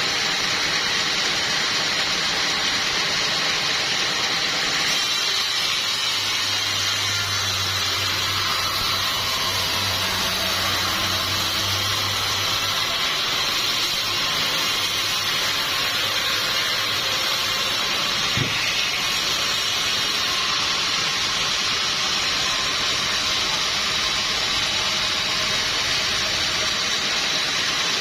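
Sawmill machinery running with a steady hissing noise. A low hum joins for several seconds in the first half, and there is a single short knock about two-thirds of the way through.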